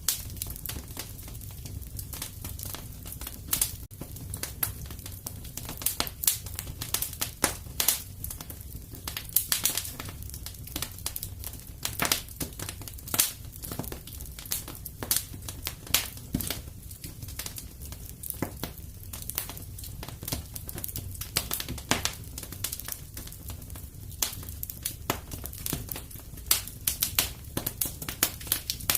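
Fireplace fire crackling: frequent, irregular sharp snaps and pops over a steady low rumble.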